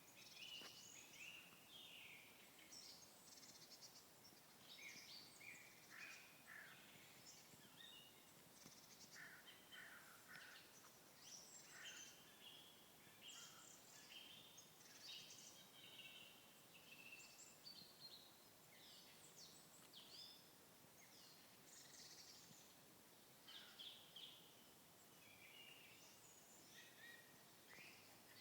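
Faint chorus of several birds singing and calling, a dense run of short, varied chirps and whistles overlapping one another.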